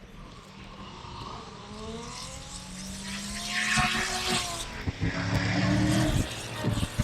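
A drift car's engine revving hard as it comes closer, growing steadily louder, with tyre screech about halfway through and a few sharp cracks near the end.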